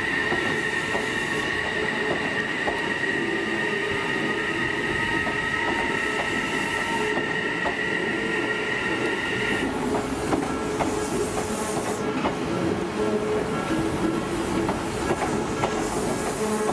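Odakyu Line electric commuter train running through a curve, its wheels squealing in a steady high tone that stops abruptly about ten seconds in. Wheels rumble and click over the rail joints throughout.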